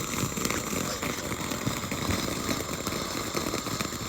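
A small ground firework fountain burning: a steady hiss studded with rapid crackles.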